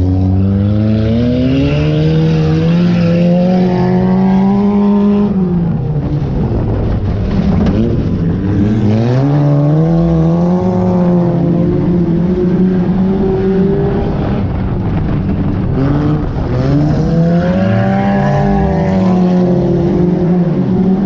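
Junk race car's engine at full throttle around a dirt track, revving up and falling back three times as it accelerates down the straights and lifts off into the turns.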